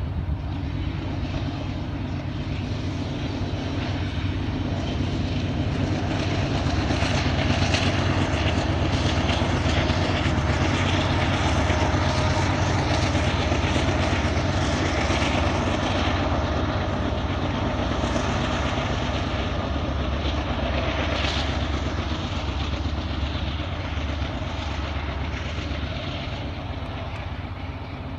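Double-stack intermodal freight train rolling past, its steel wheels running on the rails over a steady low diesel engine hum. A Union Pacific diesel locomotive set within the train passes about halfway through, and the sound eases off toward the end as the train pulls away.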